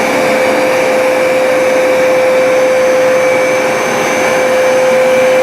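Hoover SmartWash automatic carpet cleaner running in wash mode: a steady motor whine with a strong, even hum over the rush of suction.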